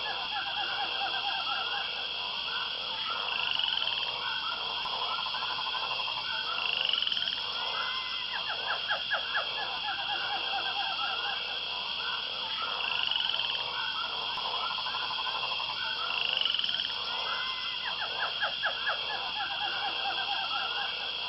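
A steady chorus of frog-like calls: rapid pulsed trills recurring every few seconds over a constant high buzz, with a short rising note about every three seconds.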